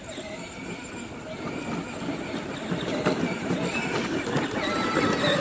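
A child's ride-on tractor driving over rough ground, its motor and wheels growing louder as it comes closer.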